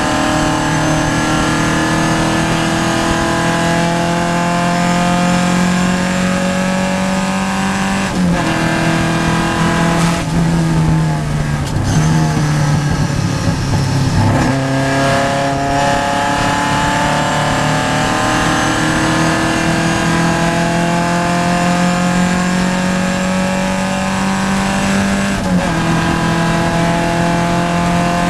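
Vintage Triumph race car engine heard from inside the car. It pulls through a long rising run with an upshift about eight seconds in, then the note drops in steps through a stretch of lifting off and shifting down. It climbs steadily again and shifts up near the end.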